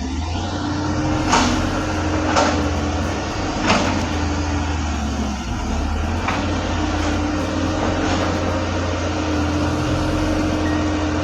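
Excavator diesel engine running steadily under load with its hydraulics, and three sharp knocks in the first few seconds, about a second apart.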